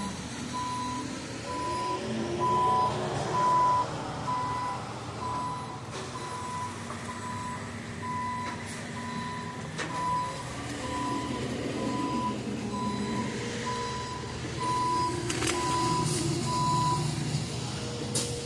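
A vehicle's reversing alarm beeping steadily at about one beep a second, then stopping near the end, over the low running of an engine.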